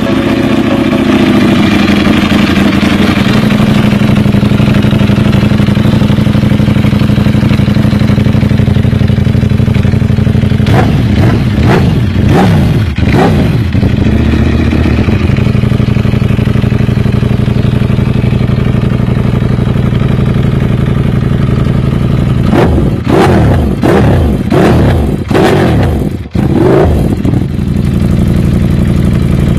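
Ducati Panigale V4 V4 engine through a Termignoni exhaust, idling, its idle speed easing down over the first few seconds. About eleven seconds in it is blipped three times in quick succession. Near the end comes a quick run of several more blips before it drops back to idle.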